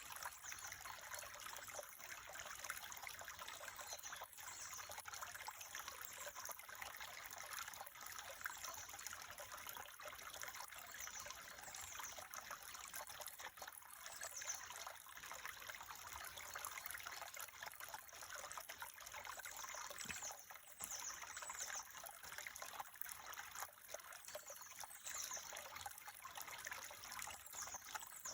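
Water trickling steadily, with short high sweeping sounds recurring every second or two.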